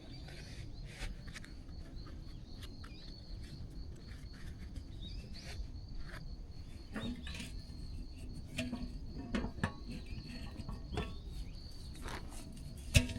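Insects, crickets or similar, chirping steadily at one high pitch, with scattered short clicks and knocks over a low outdoor rumble.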